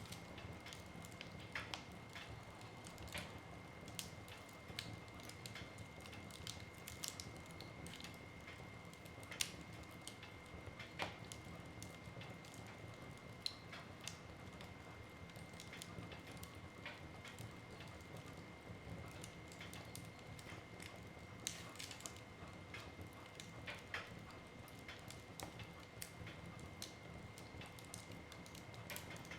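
Wood fire in a fireplace crackling: irregular sharp pops and snaps over a soft hiss. A faint steady high tone runs underneath throughout.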